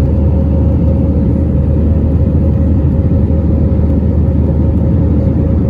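Jet airliner cabin noise in flight shortly after take-off: a loud, steady, deep rumble of engines and airflow with a faint steady hum above it.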